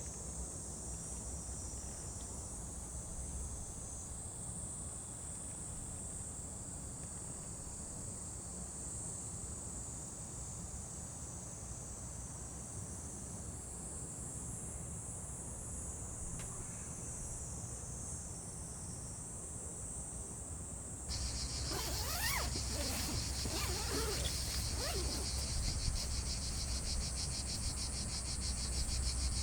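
Chorus of insects chirring steadily in a high pitch, with a low rumble of ambient noise beneath. About three quarters of the way through it turns abruptly louder, with a fast pulsing trill and a few short chirps.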